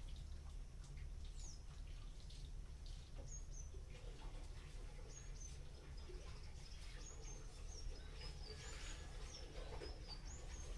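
Small birds chirping faintly: short, high, falling chirps, scattered and more frequent in the second half, over a low steady hum.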